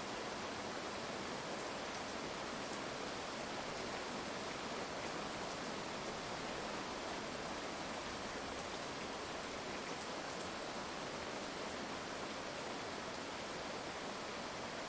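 Heavy rain falling in a steady, even hiss, with no thunder in this stretch.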